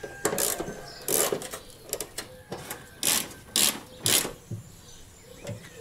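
Short metallic clatters and rattles, five louder ones with small ticks between, from hand work on a car's front-end metal parts.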